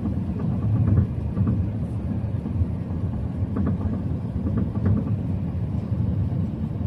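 Steady low rumble of an Airbus A380-800's engines and airflow heard from inside the passenger cabin during the landing approach.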